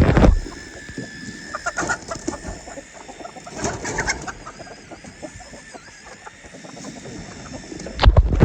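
Chickens clucking in short, scattered calls, with a couple of loud thumps at the start and near the end.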